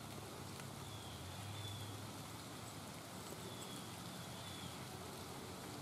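Light rain falling steadily, faint and even, with a few faint high chirps over it.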